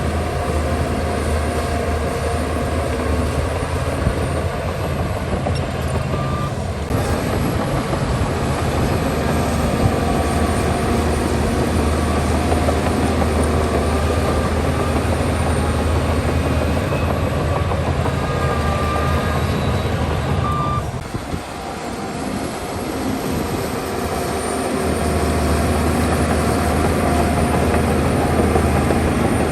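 Heavy earthmoving machine's diesel engine running steadily under work, its low engine note dropping away for a few seconds about three-quarters through before coming back.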